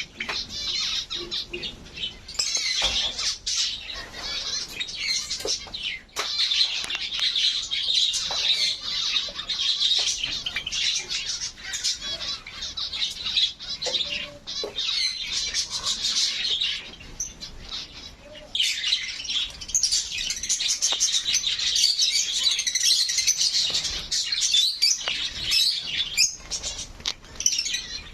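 A flock of small aviary birds chirping and calling together in a dense, continuous chatter, with a brief lull about two-thirds of the way through.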